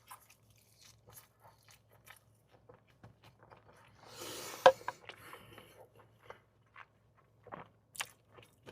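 Close-miked chewing and crunching of a bite of fried food: many small wet mouth clicks and crunches, with a louder crunch about four and a half seconds in.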